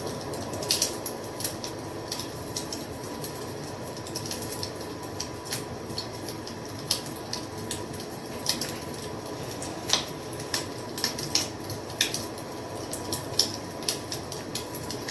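Wood fire crackling: a steady hiss of burning with irregular sharp pops and snaps scattered throughout, a few of them louder than the rest.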